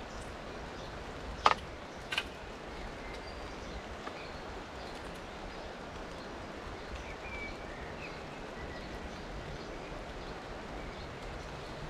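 Steady rain falling on the river and the bankside leaves, with two sharp clicks about a second and a half and two seconds in, and a few faint bird chirps later on.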